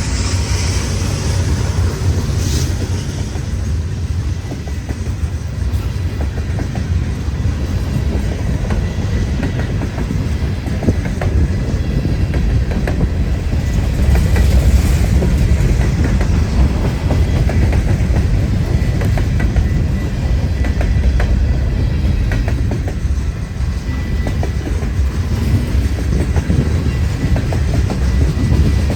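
Freight train cars rolling past at speed: a steady low rumble with a constant patter of wheel clicks.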